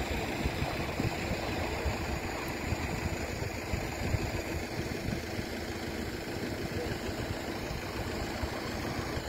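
Siemens Desiro diesel multiple unit running away along the track, its engine and wheel noise a steady rumble that slowly fades.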